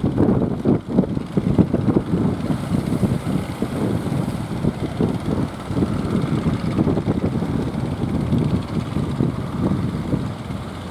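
Strong wind buffeting the microphone in a loud, fluttering low rumble, with a fishing boat's engine running beneath it.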